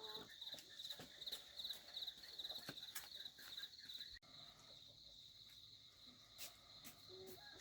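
Faint insects, crickets, chirping in a pulsing rhythm of about four chirps a second, becoming a steadier trill about halfway through, with scattered light clicks and knocks.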